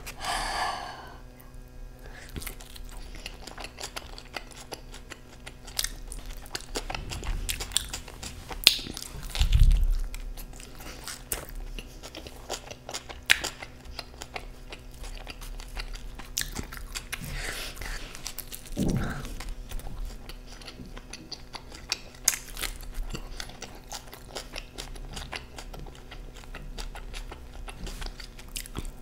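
A man biting and chewing pizza slices, with crunching of the crust and a steady run of small clicks and crackles from the mouth.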